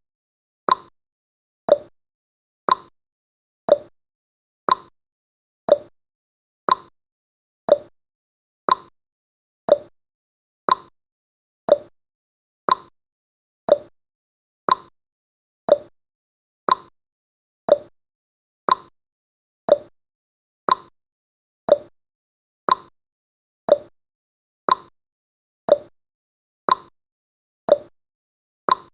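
Clock ticking sound effect of a countdown timer: sharp ticks about once a second, alternating between a lower tick and a higher tock.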